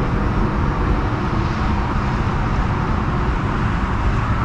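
Steady rumble of car engines and traffic noise, with no single engine standing out.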